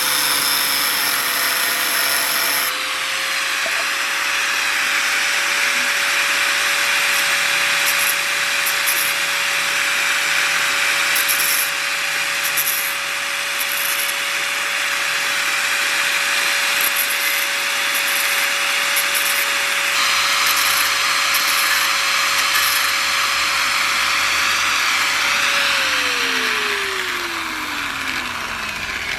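Electric power tool running steadily with a grinding, rubbing noise on the workpiece, then switched off near the end, its motor whine falling in pitch as it spins down.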